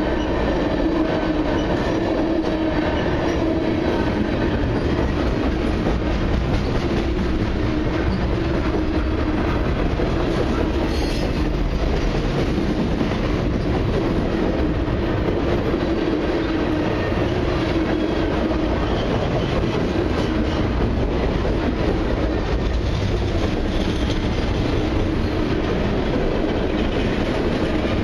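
Freight train cars (tank cars, centerbeam lumber flatcars and gondolas) rolling steadily past on steel rails: a continuous rumble of wheels on track with a clickety-clack as the wheel trucks pass.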